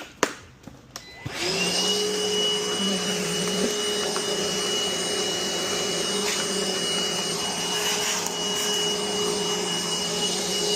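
Vacuum cleaner switched on a little over a second in, its motor quickly reaching speed and then running steadily with a high whine over the rush of air. A few light clicks come just before it starts.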